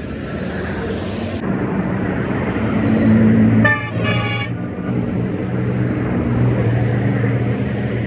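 A vehicle engine running with a steady low hum, and two short horn toots a little before halfway through, the loudest sounds. A high hiss stops suddenly about a second and a half in.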